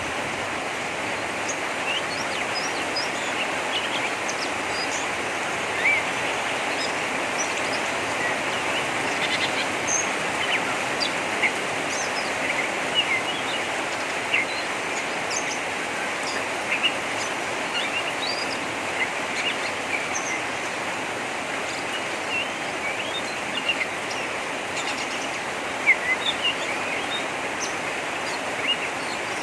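Oriental magpie-robin giving rough 'ngeriwik' calls: many short, sharp chirps scattered all through, over a steady hiss of background noise.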